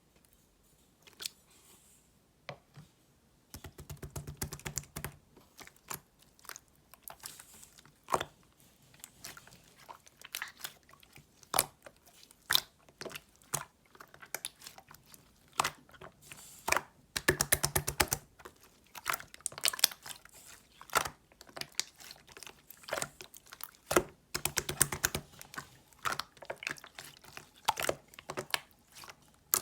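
Slime being squished and pressed by hand, giving off runs of sharp crackling clicks and small pops. A few bursts of rapid clicking stand out.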